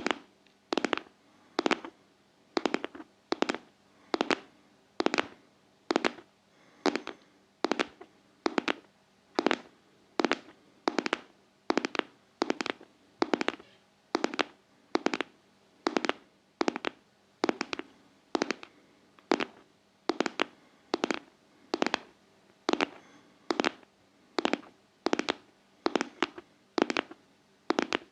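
ASMR tapping with the fingers, sharp taps falling in an even rhythm of close pairs, a little more than once a second, like a heartbeat.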